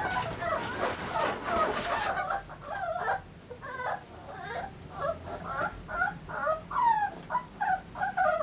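Puppies whimpering, with many short high whining cries that bend up and down in pitch, one after another. A few light clicks in the first two seconds.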